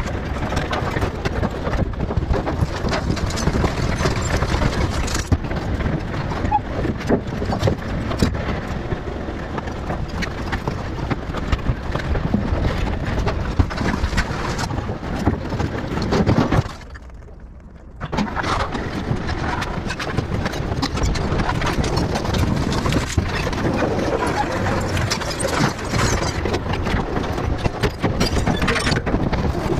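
Dense clattering and knocking of trash being crushed in a refuse compactor, with a brief break about seventeen seconds in.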